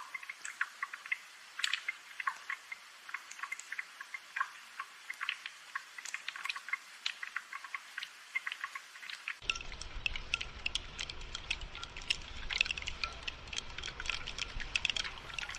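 Raindrops dripping and pattering in many irregular small ticks. A faint low rumble comes in suddenly about nine seconds in.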